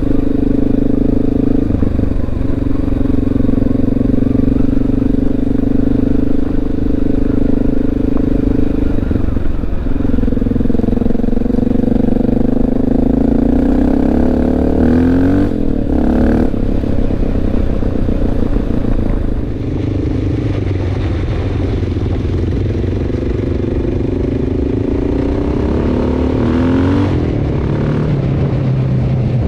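Honda XR650L's single-cylinder four-stroke engine running under way, mostly holding a steady pitch. It rises as the bike speeds up a little before the middle and again near the end, and eases off just past the middle.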